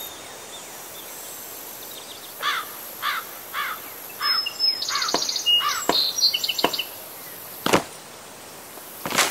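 Outdoor nature ambience over a steady hiss: a bird calls in a run of about six evenly spaced chirps, then higher, quicker twittering follows. A few sharp clicks or knocks come through, the loudest two near the end.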